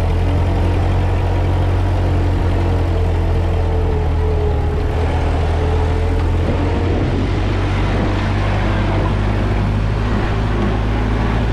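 Ford 2N tractor's four-cylinder flathead engine running steadily under load while climbing a steep, muddy hill.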